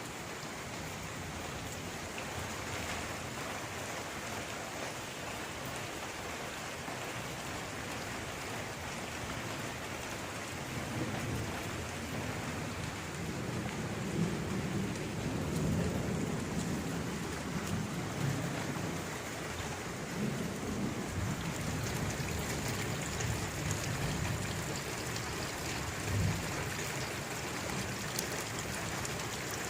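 Steady rain falling, with a long low rumble of thunder that builds about a third of the way in, swells, and dies away near the end.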